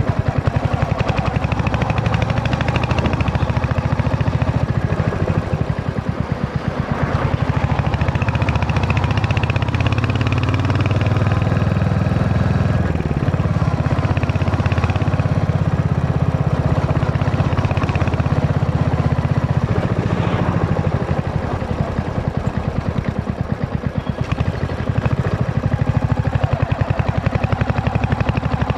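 Royal Enfield Hunter 350's single-cylinder engine running, its exhaust making a steady stream of rapid pulses heard from the rider's seat, easing off briefly about 7 seconds and 24 seconds in.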